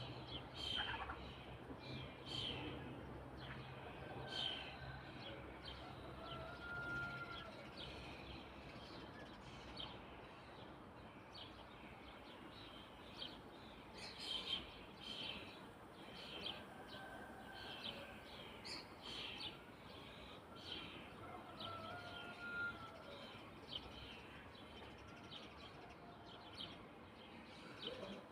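Small birds chirping, many short calls repeating throughout, with a few brief whistled notes.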